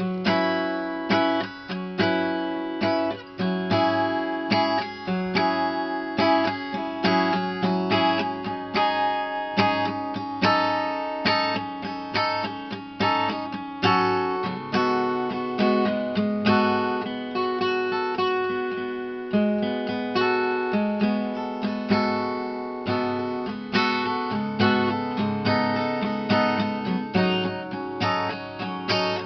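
Acoustic guitar strummed in a steady rhythm, with no singing. The chords change about halfway through.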